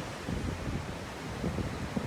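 Strong wind buffeting the microphone in uneven gusts, over the rush of ocean surf.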